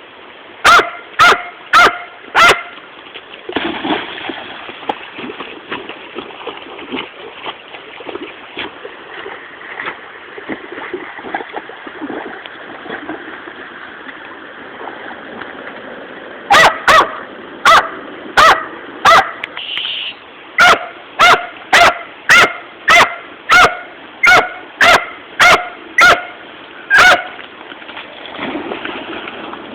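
A dog barking in sharp, loud barks over the steady rush of a flooded river: four barks at the start, then a long stretch of rushing water, then a quick run of about sixteen barks, roughly two a second.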